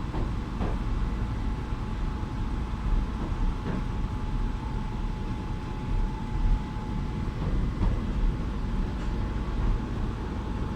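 Keihan Keishin Line train running, heard from inside the car: a steady low rumble with a thin steady whine and a few faint knocks.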